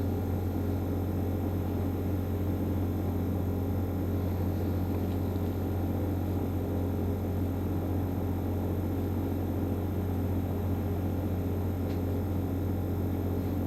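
Winia Dimchae mini kimchi refrigerator running with a steady low hum.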